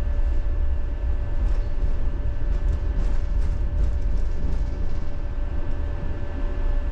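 Tram running along its rails, heard from inside the car: a steady low rumble with a constant hum of steady tones and a few faint ticks from the wheels and track.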